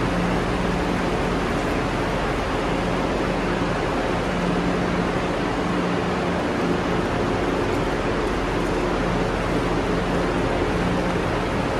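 Steady hiss with a low hum that comes and goes, from the ventilation and auxiliary equipment of a parked Haramain high-speed electric train standing at the platform.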